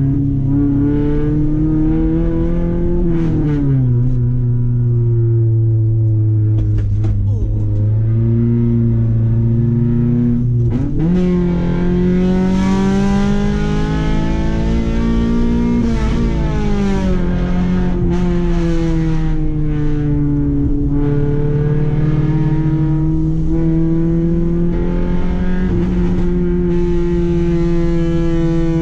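Honda H22A Euro-R 2.2-litre VTEC four-cylinder with a 4-2-1 header and 3-inch exhaust, heard from inside the cabin under hard acceleration. The revs climb, drop sharply about three seconds in, then climb steeply again to a high pitch and fall away sharply at a shift around the middle. After that it runs at a steadier pitch with small rises and dips.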